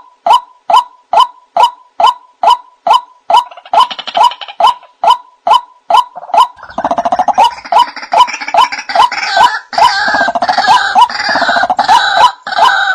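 White-breasted waterhen (ruak-ruak) calling: an even series of short, pitched notes, about two and a half a second. About halfway through, a denser stretch of overlapping croaking and chattering calls joins in, then the even series carries on alone near the end.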